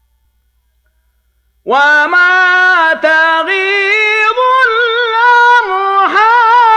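Almost silent for under two seconds, then a man's voice in melodic Qur'an recitation in the Hijazi style, drawn-out high notes with ornamented pitch turns and brief breaths between phrases.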